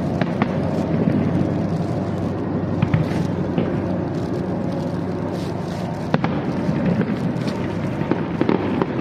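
Fireworks show going off continuously: a dense rumble of bursts with many sharp pops and crackles, and a few louder cracks scattered through.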